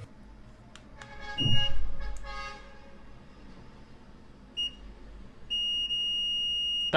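Digital multimeter on its continuity (buzzer) setting beeping as the probes touch the earphone: a short beep about a second and a half in with a loud low thump, another short beep later, then a steady beep held for about a second and a half near the end. The steady beep shows the circuit through the earphone driver is intact.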